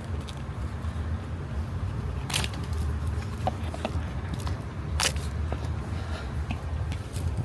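Plastic electrical connectors clicking as they are unplugged from the ignition coils and fuel injectors, with two sharp clicks about two and five seconds in and a few small ticks between, over a steady low rumble.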